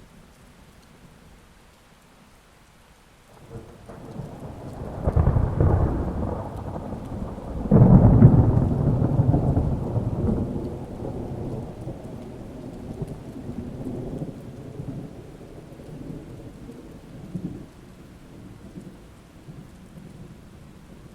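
Rain falling steadily, then a roll of thunder that starts about three seconds in. It swells, breaks into a sharp loud clap near eight seconds, and rumbles away gradually over the following several seconds.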